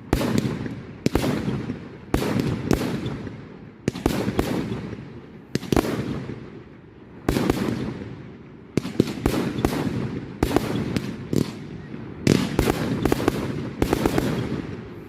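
Display fireworks: a rapid series of aerial shell bursts, loud bangs about one a second, each trailing off in echo, with several bangs close together in the second half.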